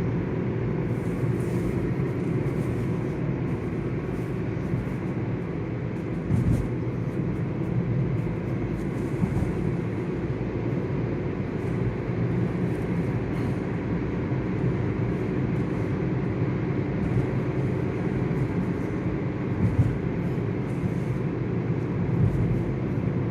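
Steady road and engine noise heard inside a moving car's cabin, a low rumble with a couple of brief knocks.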